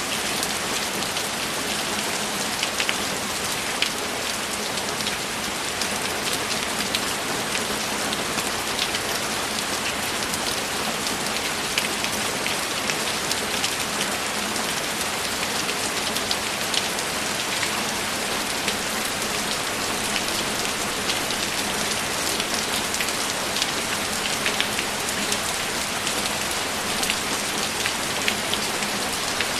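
Steady heavy rain falling: a dense, even hiss with many separate drop ticks scattered through it.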